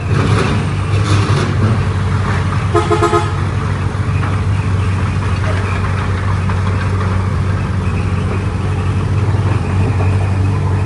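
Heavy diesel engine of earthmoving machinery running steadily, with a short vehicle horn toot about three seconds in.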